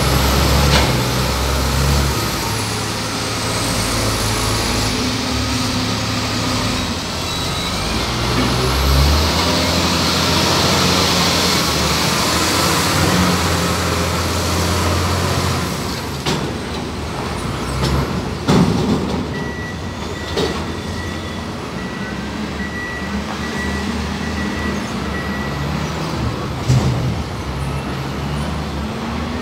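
Heavy diesel vehicle engines of container-handling trucks running, their pitch stepping up and down under throttle, with a spell of hissing air and a few sharp metallic knocks.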